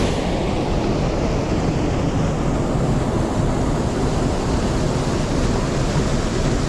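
Steady rushing of a mountain stream's water, a loud, even noise heaviest in the low range.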